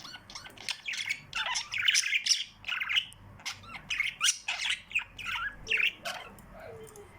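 Small pet birds chirping and squawking in a rapid, busy chatter of short calls that thins out near the end.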